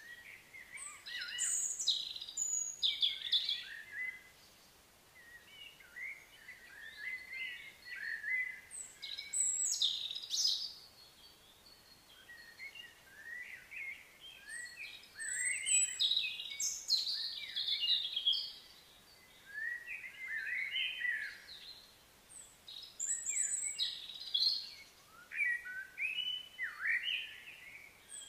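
Birds singing and chirping in repeated bouts of quick, high notes, with short pauses between the bouts.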